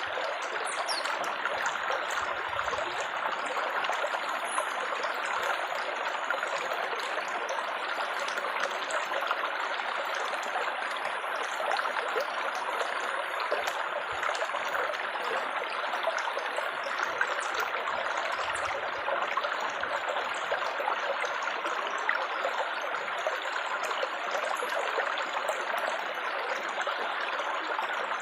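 Water babbling and trickling steadily, a continuous splashing like a small stream.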